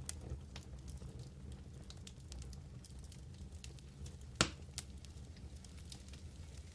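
Wood fire in a fireplace crackling: scattered small snaps over a low steady rumble, with one loud pop about four and a half seconds in.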